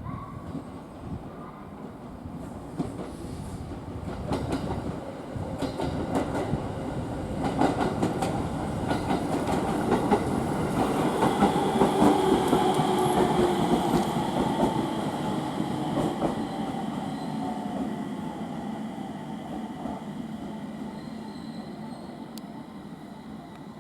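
A train running along the platform, growing louder to a peak about halfway through and then fading. Wheels click over rail joints, and a faint whine slowly falls in pitch as the train moves.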